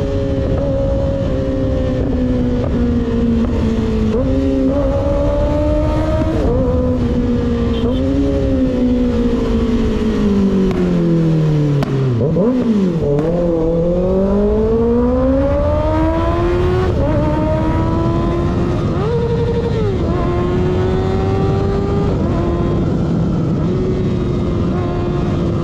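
Sport motorcycle engine, a Kawasaki ZX6R with a baffle-less M4 slip-on exhaust, heard from on board: it slows with several downshifts to a low point about halfway through, then accelerates through a gear change and settles at a steady cruise. Wind rumbles on the microphone underneath.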